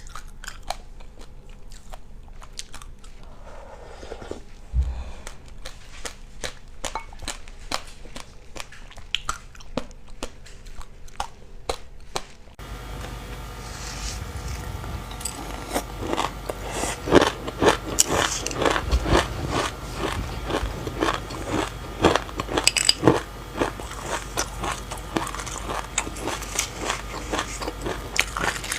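Close-miked chewing of crunchy food: a steady run of small crunches and clicks, louder from about halfway through.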